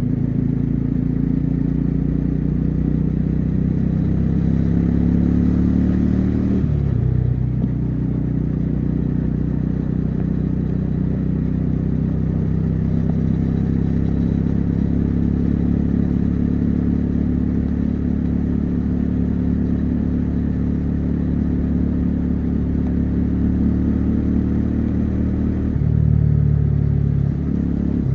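Bajaj Dominar 400's single-cylinder engine and exhaust running under load on the road, its note climbing steadily for about six seconds, then dropping sharply and settling into a steady cruise. Near the end the note drops again and picks back up.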